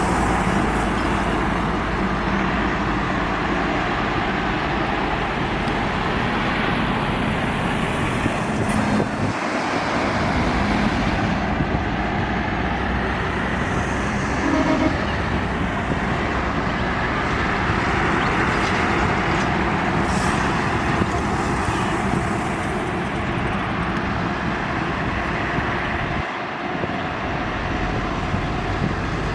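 Steady roadway traffic noise: heavy trucks and cars passing continuously on a busy highway.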